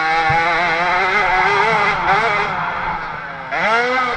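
50cc two-stroke motocross bike engine running at high revs, its pitch wavering with the throttle. Near the end it drops briefly, then revs back up in a rising whine.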